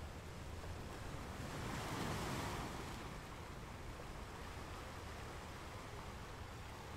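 Steady tyre and road noise of a car driving at about 30 mph, heard inside the cabin, with the rush of an oncoming vehicle swelling and fading as it passes about two seconds in.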